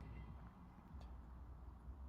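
Near silence: a faint, steady low rumble with a single faint click about a second in.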